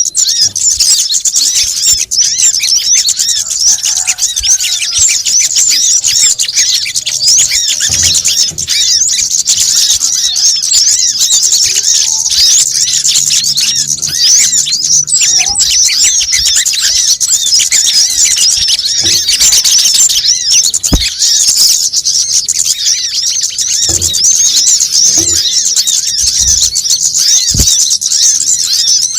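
Sunbirds chattering: a dense, unbroken stream of rapid, high-pitched chirps and twitters, played as a bird-lure call.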